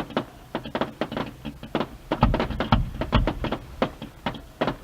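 Fireworks going off: a dense, irregular run of sharp crackling pops, with three deeper booms between about two and three and a half seconds in.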